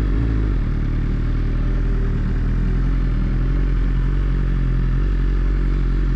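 BMW S1000RR inline-four engine running at a steady, unchanging speed.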